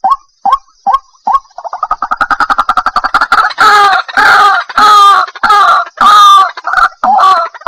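White-breasted waterhen calling: single short notes spaced a little under half a second apart, then a fast run of short notes about one and a half seconds in, building into loud, harsh repeated phrases about twice a second.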